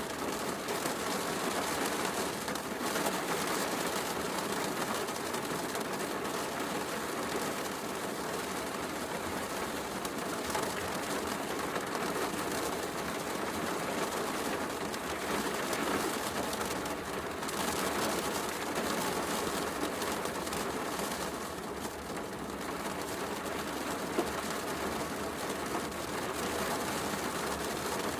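Heavy rain falling steadily, mixed with the light crackle of a wood fire in a fireplace.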